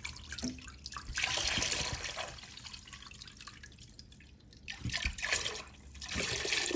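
Automatic transmission fluid being poured into diesel in a container, the liquid splashing in two spells: one about a second in and another near the end.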